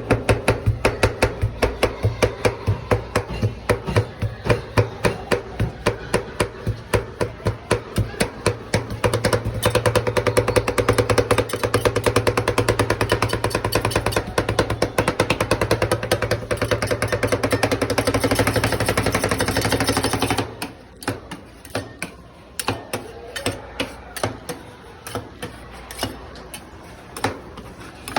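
Metal spatulas chopping and tapping on the frozen plate of a rolled ice cream machine, in fast, even strikes about three a second over a steady hum. About 20 seconds in the hum stops and the strikes become sparser and quieter.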